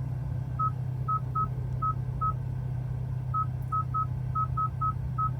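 Hyundai infotainment touchscreen giving about a dozen short, identical beeps at one pitch, irregularly spaced, as the map zoom is tapped repeatedly. A steady low hum runs underneath.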